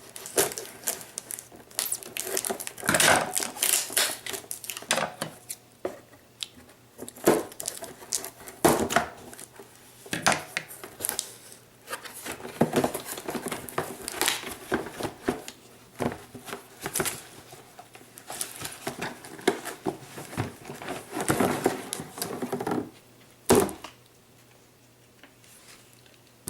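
Packaging crinkling and tearing in irregular bursts as a box fan is unwrapped and handled, with scattered clicks and a sharp knock near the end.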